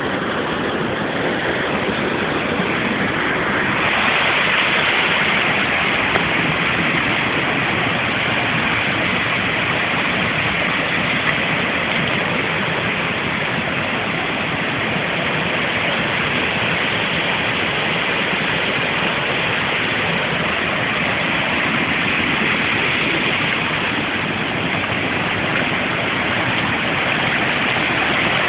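Steady rushing of running water, such as a forest stream or small waterfall, holding at an even level and getting a little brighter about four seconds in.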